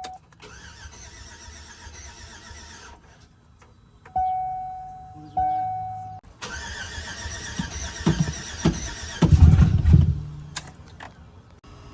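Car engine cranking on the starter in two spells, with two short electronic chimes between them. About nine seconds in it briefly fires with a loud low rumble, then dies without running. The engine tries to catch but won't start, which the owners put down to a leaky fuel injector.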